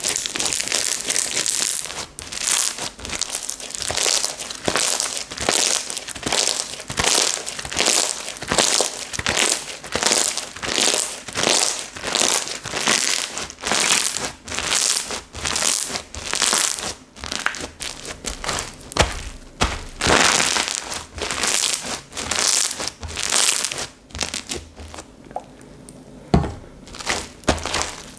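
Slime being squeezed, pressed and stretched by hand, a quick run of sticky, crackly strokes about one to two a second, which eases off for a couple of seconds near the end.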